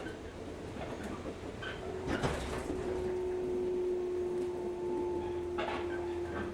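Inside a local train carriage: a steady low rumble, a sudden clunk about two seconds in, then a steady hum that holds on.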